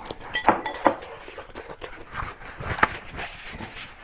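Close-miked chewing: a person eating, with irregular wet clicks and smacks of the mouth and food, a few sharper ones standing out.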